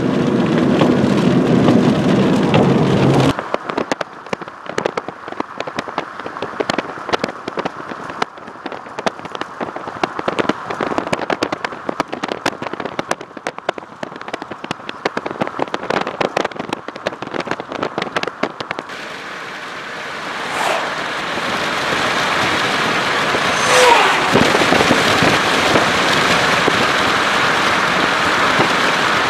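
Heavy rain and wind on a vehicle for the first few seconds, then scattered raindrops tapping hard on the vehicle's roof and windshield for about fifteen seconds. After that, a steady rush of wind and rain, with two brief falling tones partway through.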